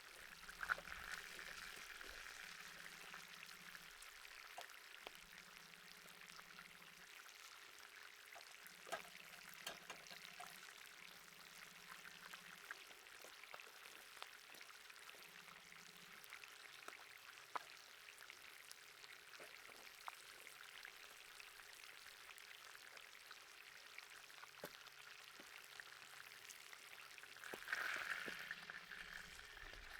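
Beef steak faintly sizzling over hot charcoal, a steady hiss with scattered small crackles and pops, swelling louder briefly near the end.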